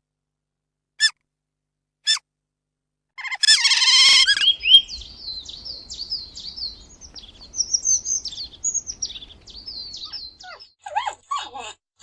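A songbird singing: a long run of rapid, high chirps and trills. Before it come a few short calls and one louder call about three seconds in, and more short calls follow near the end.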